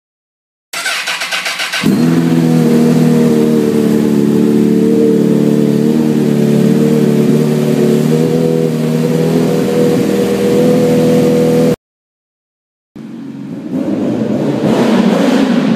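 2004 Honda CBR1000RR's inline-four engine, through a full carbon-fibre Scorpion exhaust, is cranked by the starter for about a second, then catches and settles into a steady idle. The idle stops abruptly near twelve seconds in, and after a second of silence the engine is heard again, louder and rougher, swelling in level.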